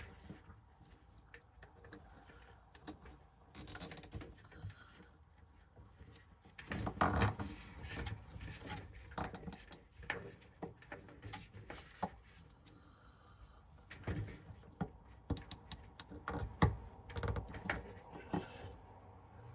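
Hands working small plastic parts: irregular clicks, rustles and light knocks as a cable tie is threaded through a drilled piece of PVC conduit on a caravan roof-hatch exhaust fan, with a brief hiss about three seconds in and a run of sharp clicks in the second half.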